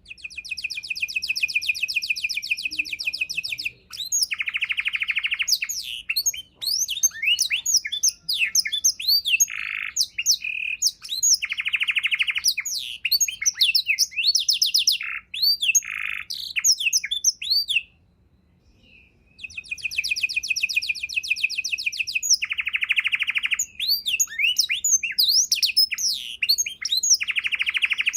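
Domestic canary singing a long, varied song: fast rolling trills alternate with quick chirps and whistled notes. The song breaks off for about a second roughly two-thirds of the way through.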